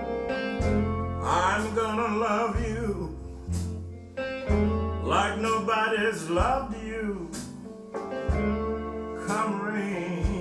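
Slow blues ballad played by a band: electric guitar and a male voice with wide vibrato over sustained organ chords and deep bass notes.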